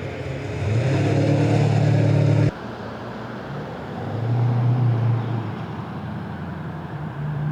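V8 car engines running at low speed as cars roll in. One engine grows louder about a second in and cuts off suddenly a couple of seconds later; another swells and fades in the middle.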